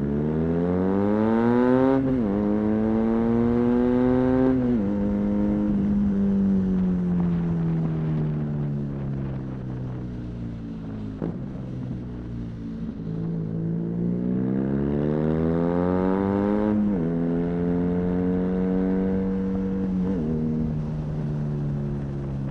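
BMW R nineT's air/oil-cooled boxer twin, fitted with a high-mounted Arrow exhaust, pulls hard twice, its revs dropping sharply at each upshift. The revs then fall slowly as the bike rolls off, before it pulls up through two more gears, with low road and wind rumble underneath.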